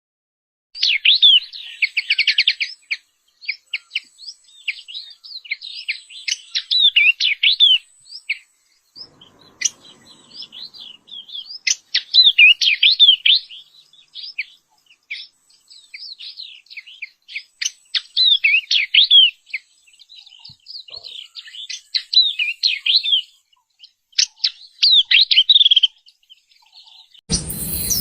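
Yellow-eyed babbler singing: repeated phrases of quick, sliding whistled notes and chirps, separated by short pauses. A background hiss comes in abruptly near the end.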